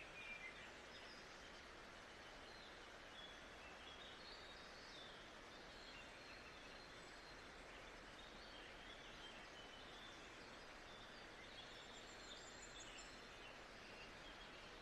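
Faint nature ambience: a steady soft hiss with scattered quiet bird chirps.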